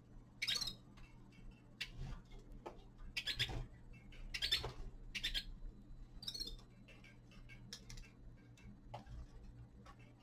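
Small caged finches giving short, high chirping calls every second or so, with light clicks in between.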